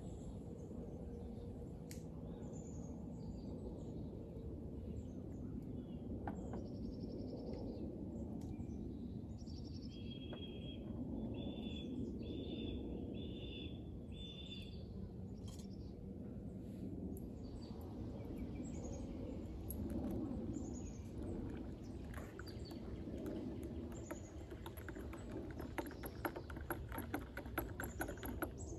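Outdoor ambience of birds calling over a steady low background noise. Midway a bird gives five short repeated notes in a row, and near the end comes a quick run of sharp ticks.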